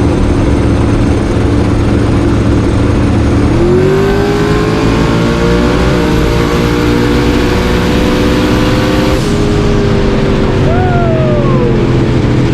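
Drag-race car engine running loud. Its pitch steps up about four seconds in, holds there, and drops back about nine seconds in. A short falling whine follows near the end.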